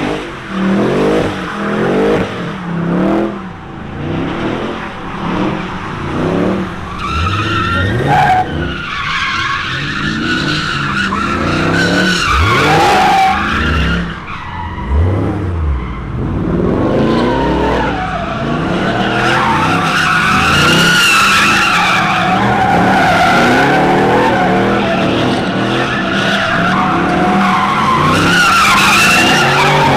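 Tires squealing and skidding as a high-powered car spins them on the pavement, with the engine revving up and down under it. The squeal wavers and grows more continuous from about a quarter of the way in.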